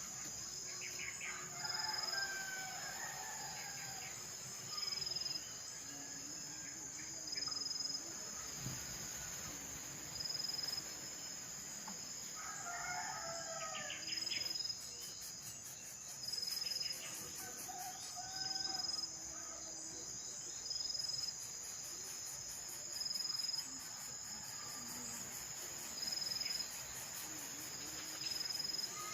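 Insects drone steadily, pulsing at a regular beat every couple of seconds. Over them, a rooster crows a few times in the background, along with other bird calls.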